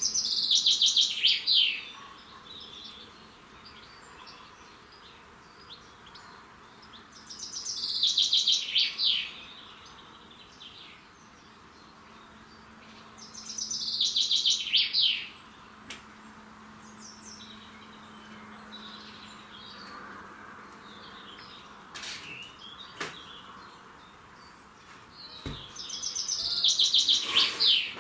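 A songbird sings the same fast phrase of rapid notes, about two seconds long, four times. Fainter chirps from other birds come between the phrases.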